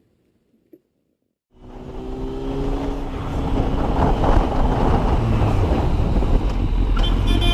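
Motorcycle running with heavy wind noise on the microphone, starting suddenly after a second or so of silence. A vehicle horn begins to sound near the end.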